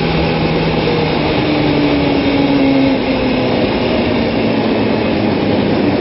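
Kawasaki ZX-6R sportbike's inline-four engine running at track speed, heard from on board over heavy wind rush; its pitch rises gently, then dips a little about three seconds in as the throttle is held through a turn.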